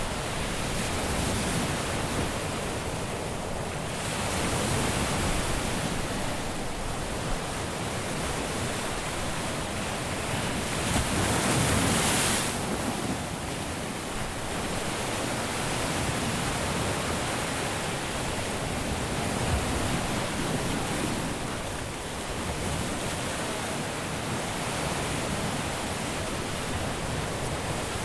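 Caribbean sea waves breaking and washing on a beach: a continuous surf hiss that swells and eases, with one larger wave surging up about eleven seconds in.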